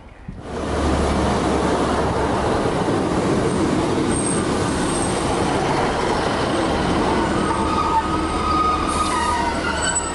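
A Class 150 Sprinter diesel multiple unit running past close by along the platform, a loud steady rumble of engine and wheels. A high squeal from the wheels or brakes joins in about seven seconds in.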